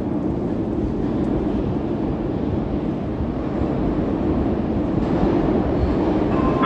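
Moscow Metro train running along the station platform: a steady rumble of wheels and running gear that grows slightly louder.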